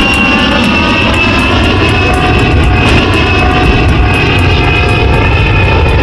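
Aircraft engine running loudly and steadily, its tones sliding slowly down in pitch as it passes.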